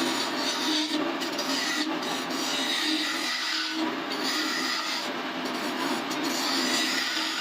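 Continuous rubbing and scraping against wood spinning on a lathe, over the steady hum of the machine.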